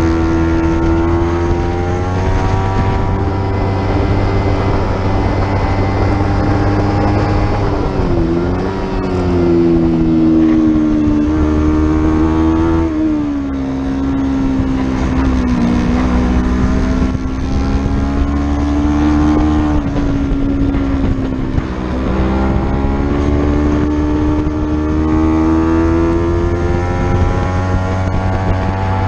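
A racing motorcycle engine running hard, heard on board with wind rush. Its pitch climbs and drops repeatedly with throttle changes and gearshifts: sharp dips about eight and thirteen seconds in, a lower stretch after that, and a long climb again near the end.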